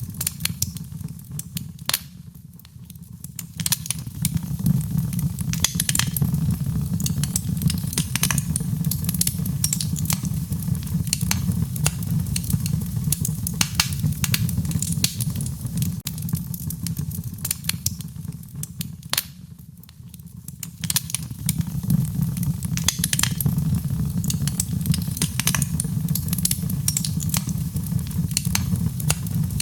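Wood fire crackling: frequent sharp pops and snaps over a low steady rumble. The sound dips quieter briefly twice, about two seconds in and about twenty seconds in.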